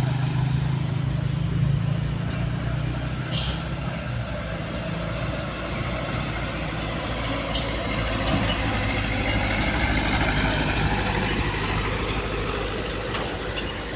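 A heavy truck's diesel engine running steadily, with two short hisses of air, about three and a half seconds in and again about seven and a half seconds in.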